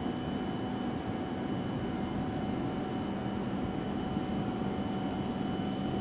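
E7 series Shinkansen train running slowly over the points as it pulls into the station: a steady rumble with a steady whine above it.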